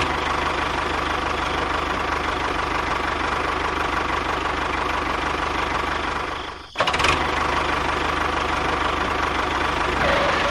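Small engine running steadily with a fast, even rattle, briefly dropping out about two-thirds of the way through before running on.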